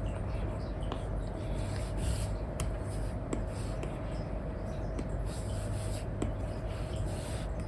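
Apple Pencil 2 with an Elecom nib scratching in short strokes across a paper-like matte screen film on an iPad, with several light nib taps. A steady low hum sits underneath.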